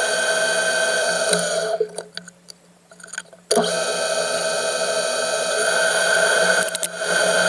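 Metalworking machine tool running with a steady, many-toned whine. It falls almost silent with a few clicks just under two seconds in, then resumes abruptly about a second and a half later.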